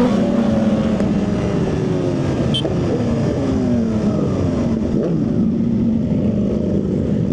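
Motorcycle engine and raw exhaust under way, the pitch dropping at the start and then holding fairly steady, easing lower at times.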